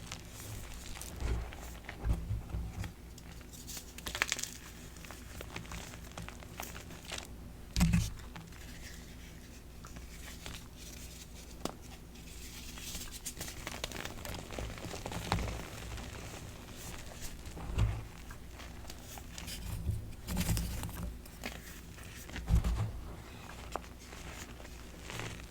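Dyed BSN gym chalk blocks and chunks being crushed: irregular crumbling and crunching crackles, with a soft thud every few seconds.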